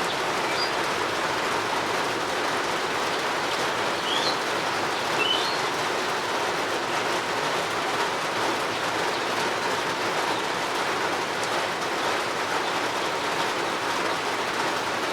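Steady rain falling, an even unbroken hiss, with a few short faint bird chirps about four and five seconds in.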